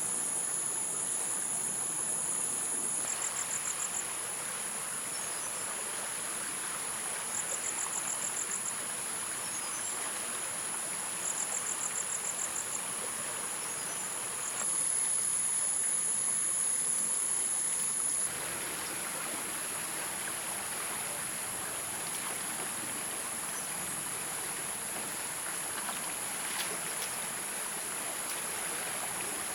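Insects calling in a steady high-pitched whine, with short rapid pulsed trills every few seconds and a louder stretch about halfway through, over the even rush of running stream water.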